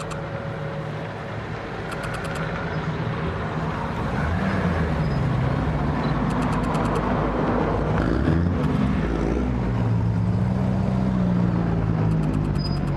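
A classic car's engine running as it drives by, growing louder about four seconds in, with a few short bursts of rapid clicks.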